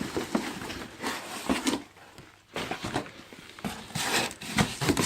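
Packaging and plastic car mats being handled: irregular rustling, crinkling and light knocks, in uneven bursts.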